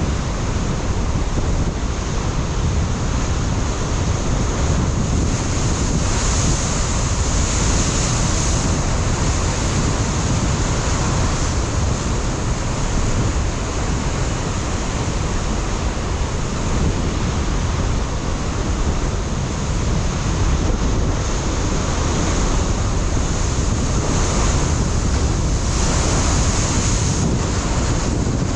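Ocean waves breaking against a rocky shore in a continuous wash of surf, swelling twice, with steady wind buffeting the microphone.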